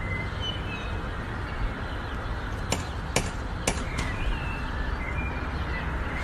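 Steady background noise with four sharp clicks or taps in quick succession a little under three seconds in, and faint short chirps above it.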